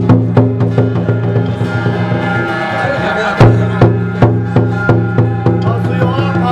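Temple ritual percussion: a steady beat of sharp drum and wood-block-like strikes, about two and a half a second, over a steady low hum. One strike about halfway through is louder than the rest.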